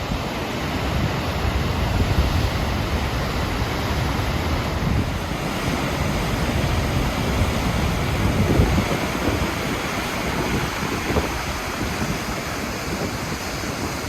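Steady roar of the large Godafoss waterfall, with wind gusting against the microphone in uneven low buffets that swell about two seconds in and again past the middle.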